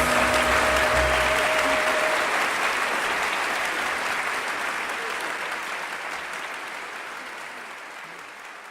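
Audience applause and cheering at the end of a live song, over the band's final held chord, which dies away about two seconds in; the applause then fades out gradually.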